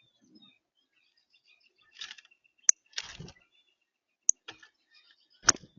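Animals working the bird feeder close to the microphone: three sharp clicks and knocks with short bouts of scrabbling and rustling, over faint, scattered chirps of small birds.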